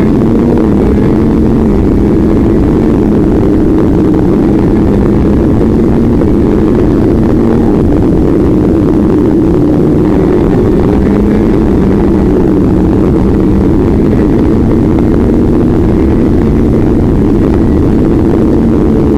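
A vehicle engine running at fairly steady revs for the whole stretch, its pitch drifting only slightly, over a constant rushing noise.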